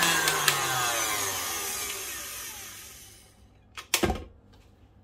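KitchenAid Artisan tilt-head stand mixer with a wire whip winding down after being switched off, its whirring motor falling in pitch and fading out over about three seconds. Near four seconds in there is a sharp clunk as the mixer head is tilted up.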